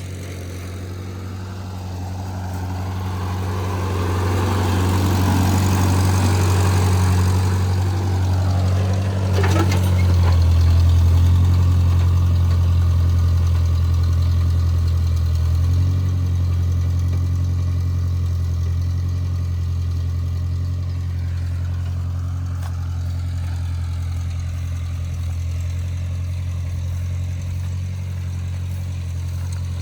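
Farm tractor engine running steadily under work. It grows louder for several seconds, with a falling sweep in pitch about nine seconds in, then settles a little lower from about sixteen seconds on.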